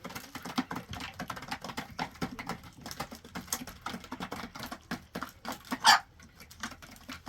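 Rapid, irregular clicking and tapping, with one sharper, louder sound just before six seconds in.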